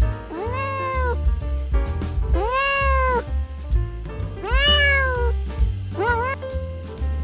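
An animal calling four times, each a drawn-out cry that rises and then falls in pitch, over background music.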